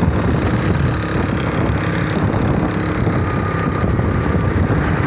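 Motorbike engine running steadily while riding, mixed with loud, even road and wind noise.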